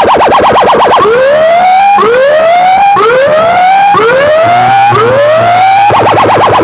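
Electronic siren, very loud, switching patterns: a fast warble for about the first second, then five rising whoops about a second each, then back to the fast warble near the end.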